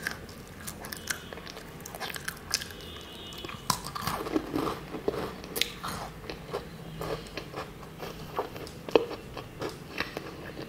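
Close-up crunching and chewing of crisp matcha biscuits, with many sharp, irregular crunches throughout.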